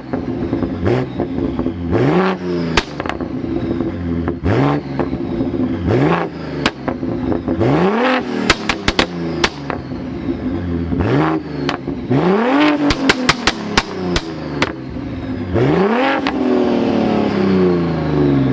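Tuned 800 hp BMW M3 Touring's twin-turbo inline-six being revved again and again in quick blips, with sharp exhaust pops and crackles between the revs, thickest in the middle. Near the end the revs sink away slowly.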